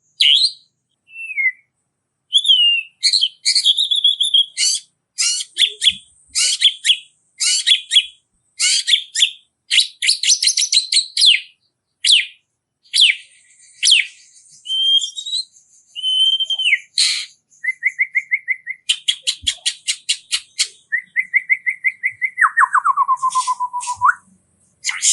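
Songbird singing a fast, varied song: bursts of rapid repeated chips and whistles, a short even trill, and near the end a run of notes stepping down in pitch.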